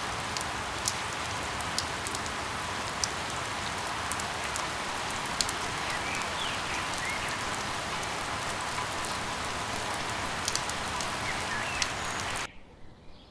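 Steady rain falling on surfaces, with scattered sharp pops and a few faint chirps mixed in. Near the end the rain cuts off abruptly, leaving a much quieter background.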